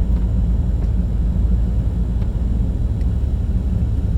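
1995 Chevrolet 2500 pickup driving, heard from inside the cab: a steady low engine and road rumble.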